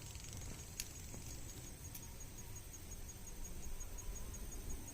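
Insects, likely crickets, trilling in a steady high-pitched pulsing chirp, over a low rumble with a couple of faint clicks.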